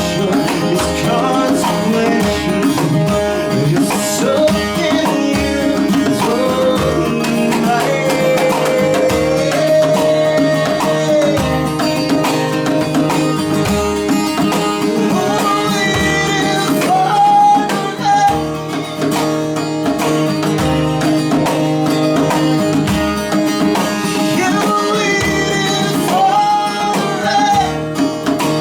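A band playing a song: a singer's voice carrying the melody over guitar and a steady beat.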